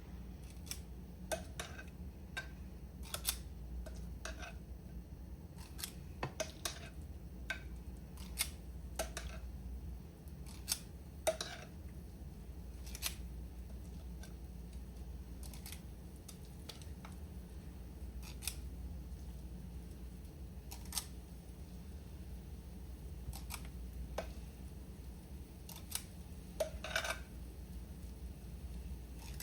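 Sharp metallic clicks of a spring-loaded cookie scoop's squeeze-release mechanism, coming irregularly every second or so as batter is scooped, over a low steady hum.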